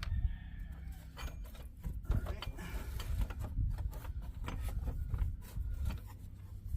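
Irregular clicks, knocks and scrapes of hands and tools working at the engine's radiator fan and fan shroud, over a low rumble.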